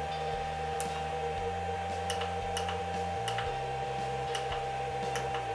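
Buttons on a variable frequency drive's keypad clicking as parameter values are stepped, about six clicks spaced irregularly, over a steady high-pitched hum.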